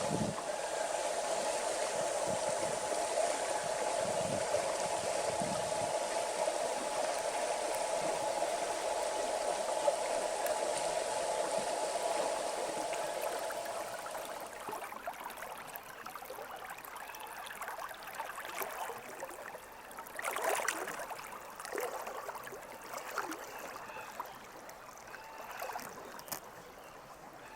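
River water rushing over a riffle in a steady dense wash. About halfway through it fades to a softer, broken gurgle with scattered small splashes.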